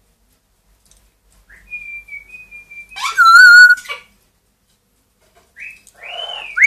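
Pet parrot whistling: a thin, slightly wavering whistle, then a louder warbling whistle about three seconds in, and a short upward-gliding whistle near the end.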